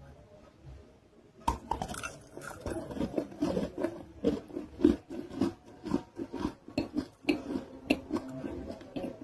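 A non-roasted nakumatt (edible clay) roll being bitten and chewed: a sharp first crunch about a second and a half in, then continual crunchy chewing with many short crackles.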